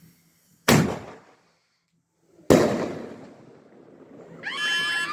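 Two loud firework bangs about two seconds apart, the second trailing off in a longer rumble. Near the end, a series of repeated pitched sliding tones begins.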